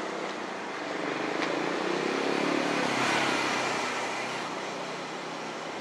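Odakyu electric train running through the station. Its running noise swells to a peak about three seconds in, then fades.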